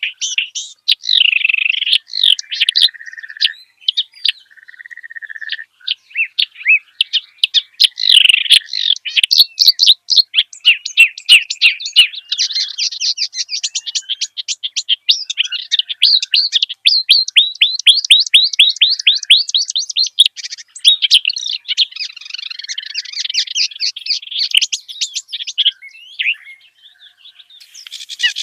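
Kerak basi reed warbler singing a long, varied song of harsh chattering phrases and whistled notes, with a fast run of evenly repeated notes in the middle. A steady hiss, such as insects or frogs, comes in near the end.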